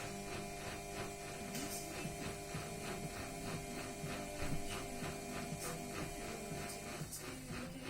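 Samsung WF-R1062 washing machine running: a steady motor hum with a quick, regular ticking of about four a second, which stops about seven seconds in.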